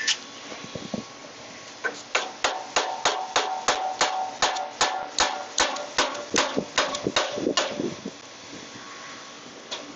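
Rapid hammer taps, about three a second for some six seconds, driving a shaft key into the keyway of a new pulley on its shaft; each metal strike leaves a short ringing note.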